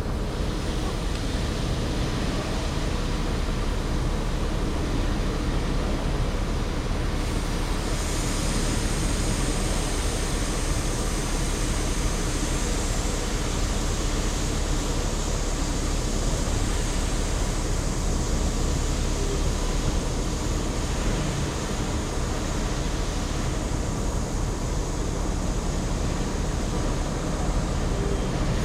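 Refrigerant gas hissing out of an opened bus air-conditioning line as the charge trapped in the isolated filter-drier section is vented. The hiss comes in about eight seconds in and keeps going over a steady low rumble.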